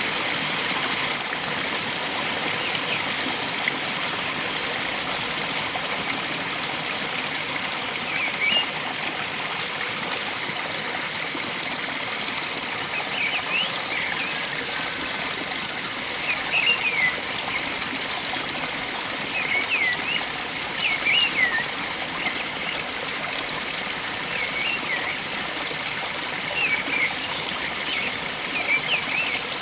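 Steady rush of flowing water, with short high bird chirps coming in small clusters from about eight seconds in.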